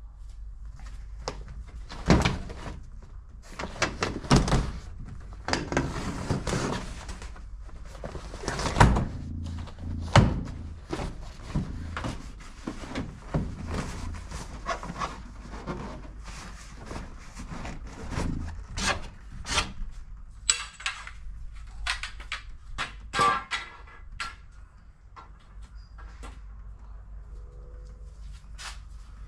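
Irregular knocks, thuds, rattles and scrapes as work gear and fittings are shifted about in the tub of a ute.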